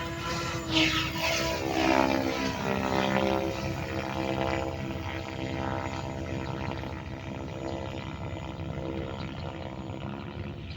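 Goblin RC helicopter flying aerobatics: its rotor and motor whine sweeps down in pitch and peaks in loudness during the first few seconds as it passes close, then holds a steady whine.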